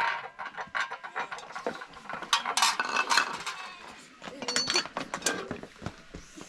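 Cooking clatter: irregular clinks and knocks of utensils against dishes and pots, one ringing briefly a little past the middle.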